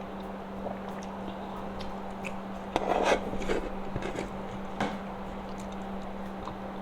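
Close-miked sounds of someone eating Samyang-sauce fried rice: chewing and mouth clicks, loudest in a short crackly burst about three seconds in, over a steady low hum.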